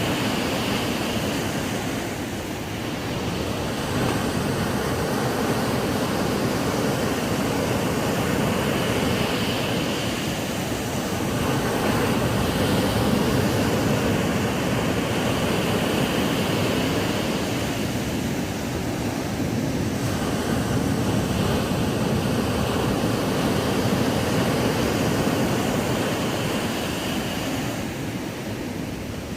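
Ocean waves breaking and washing up on a sandy beach, a continuous rush of surf that swells and eases every few seconds.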